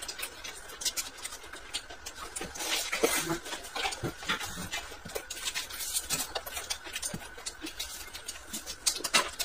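Close-miked chewing of a steamed bun stuffed with greens and pickled vegetables: an irregular run of wet mouth clicks and smacks.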